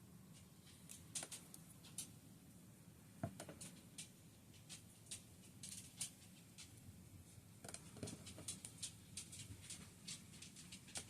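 Faint, irregular ticks and light rustles of baby's breath sprigs being handled and pushed into a resin piece, with a few slightly sharper clicks among them.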